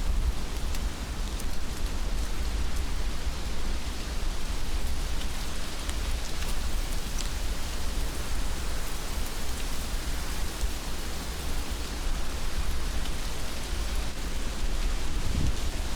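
Heavy rain falling steadily: a dense, even hiss with scattered sharper drop ticks over a low rumble.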